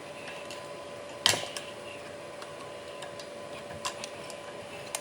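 Two metal-on-metal knocks, a sharp one about a second in and a lighter one near four seconds, over a steady hiss and faint hum, from hand work on the steel Bobtach pivot pins and bushings of a skid-steer loader.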